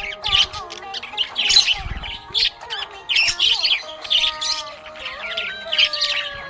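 Budgerigar chirping and chattering in a quick, busy stream of short calls, over soft background music.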